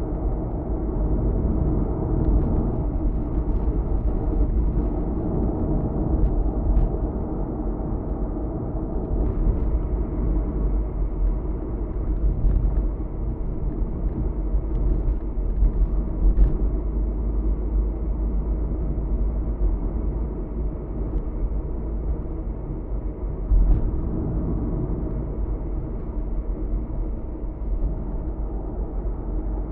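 Steady road and engine noise of a car driving, heard inside the cabin as a low, even rumble, with a few faint clicks.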